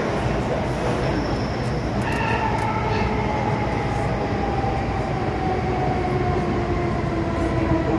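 MTR M-Train electric metro train running, with a steady rumble of wheels on track. About two seconds in, a whine comes in and falls slowly in pitch as the train slows.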